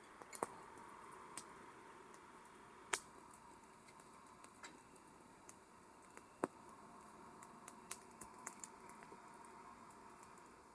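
Campfire crackling: irregular sharp pops and snaps of burning wood over a faint steady hiss, with the sharpest snaps about three and eight seconds in.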